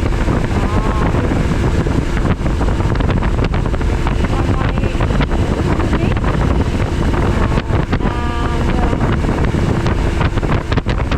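Motorcycle riding at speed: heavy wind rushing over the helmet-mounted microphone, with the low, steady drone of a Suzuki V-Strom 1000XT's V-twin engine underneath. A brief pitched sound cuts through about eight seconds in.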